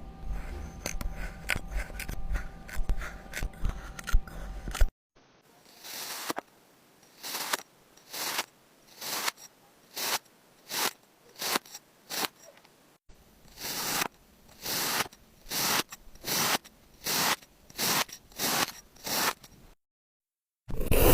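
Kinetic sand being worked: about five seconds of dense scraping and crunching, then a long series of short, evenly spaced scraping strokes, a little more than one a second, broken twice by sudden silent cuts.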